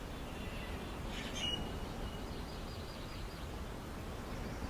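Birds chirping faintly over a steady low ambient background, with a brief cluster of high chirps about a second and a half in.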